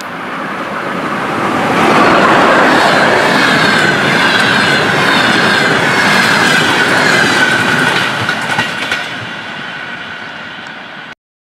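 Train rolling past on rails, its wheels clattering over the track with a steady high squealing tone. It swells about two seconds in, fades, then cuts off suddenly near the end.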